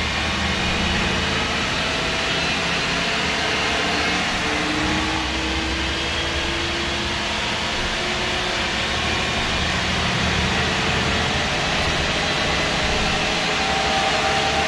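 MAN SD202 double-decker bus with a MAN D2566 MUH six-cylinder diesel and Voith Diwa 851 automatic gearbox, heard from inside while driving. A steady engine and road noise with a low hum, and faint whining tones that rise slowly in pitch.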